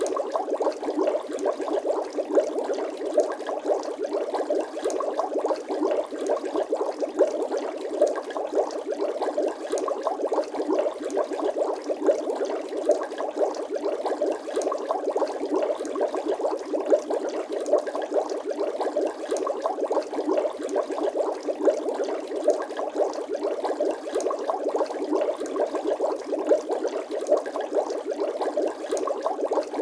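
Bubbling-water sound effect: a dense, even stream of many small bubbles in water, each one a tiny pop.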